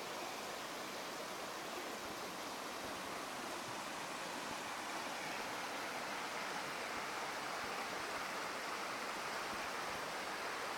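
Steady rushing of running water, growing slightly louder about halfway through.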